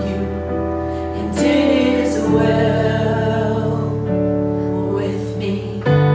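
Worship song performed live: a singer's voice over held keyboard chords, the chord changing twice.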